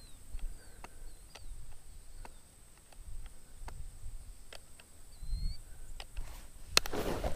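A small bird chirping faintly in the open field, short high calls repeating about once a second, with scattered light clicks. A rustle of movement comes near the end.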